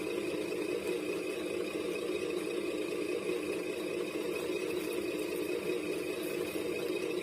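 Steady mechanical hum of a 1/14 scale radio-controlled construction model running, with a thin high whine over it and no change in pitch or level.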